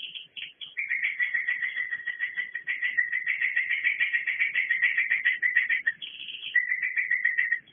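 Edible-nest swiftlets calling through a CCTV microphone: a long, rapid chattering trill of about five seconds, then a shorter one near the end, with scattered clicks between.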